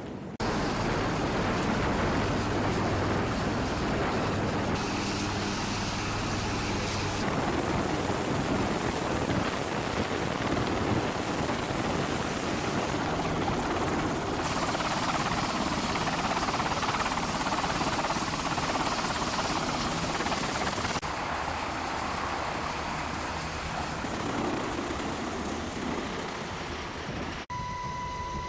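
Steady rushing aircraft engine noise that changes abruptly every few seconds, giving way near the end to a steady electronic-sounding tone.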